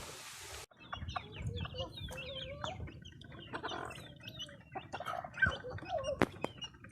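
Backyard chickens clucking, many short calls from several birds overlapping. This follows a steady rushing hiss that cuts off suddenly under a second in.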